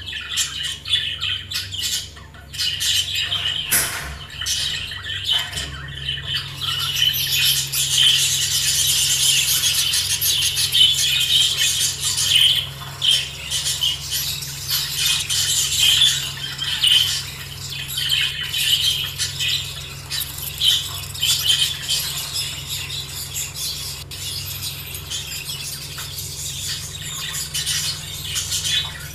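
A flock of caged budgerigars chirping and chattering together in a dense, continuous chatter that grows fuller about six seconds in. A low steady hum runs underneath from the same point.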